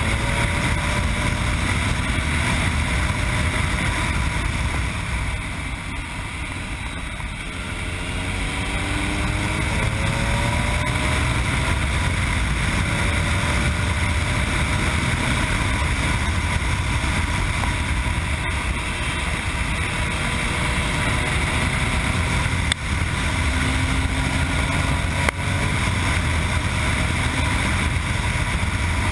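Yamaha MT-09's three-cylinder engine with an Akrapovic exhaust heard on board while riding, under a heavy rush of wind on the microphone. The engine eases off about five seconds in, then climbs in pitch as it accelerates a few seconds later. There are two brief knocks near the end.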